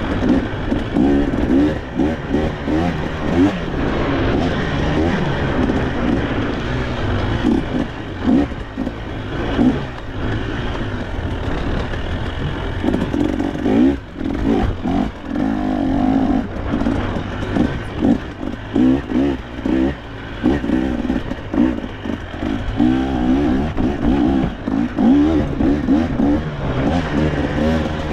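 KTM two-stroke enduro dirt bike engine being ridden hard over rough trail, its revs rising and falling every second or so as the throttle is blipped and rolled off, with rattling from the bike over roots and rocks.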